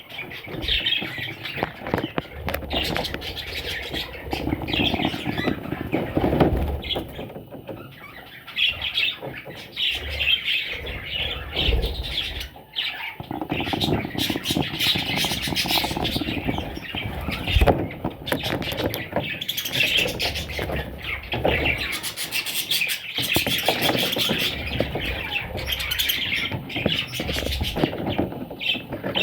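Parrots chirping and chattering continuously in a busy, overlapping stream of short calls, with scattered clicks and rustling.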